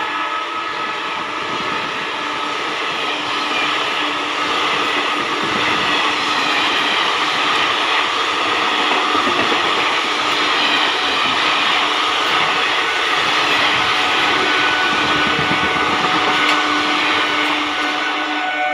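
Electric-locomotive-hauled express train passing at speed: a steady, loud rumble and rattle of coaches running over the track.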